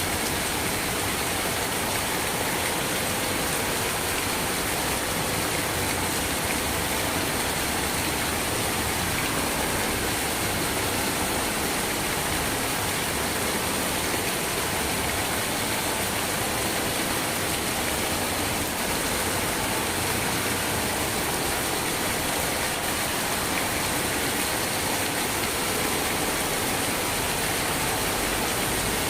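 Steady rain, an even hiss that does not change in level or character.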